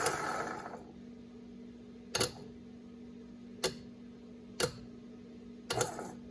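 Short sharp clicks, four of them a second or so apart, as the rebuilt Ramsey 12,000 lb worm-gear winch is bumped on and off, over a steady low hum.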